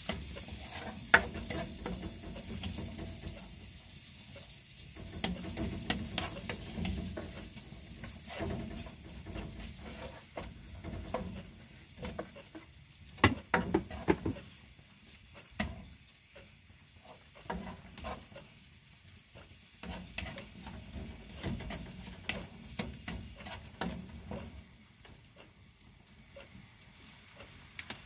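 Chopped garlic, ginger and onion sizzling in melted margarine in a nonstick wok, stirred with a plastic spatula that scrapes and taps against the pan. The sizzle is strongest at the start and fades over the following seconds, with a quick run of taps about halfway through.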